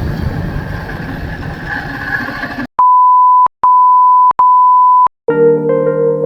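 A noisy rumble stops abruptly, followed by three steady electronic beeps of one high pitch, each under a second long. About five seconds in, synthesizer or keyboard music begins.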